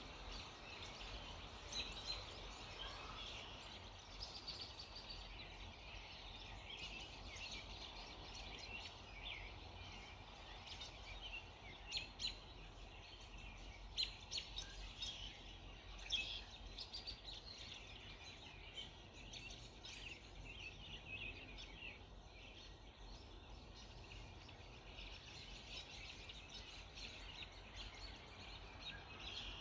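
Chorus of many songbirds chirping and singing at once, overlapping calls with a few sharper, louder chirps in the middle, over steady low background noise.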